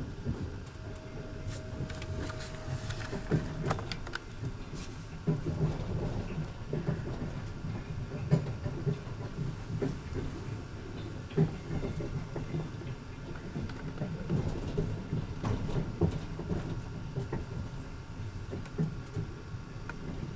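Rumble of a passenger train heard from inside the carriage, with irregular clicks and knocks of the wheels and coach. A brief steady whine sounds for a few seconds starting about a second in.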